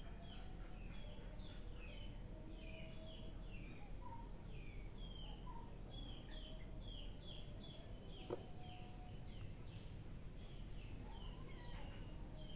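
Small birds chirping, a quick run of short falling chirps repeating over a steady low background rumble. A single brief click about eight seconds in.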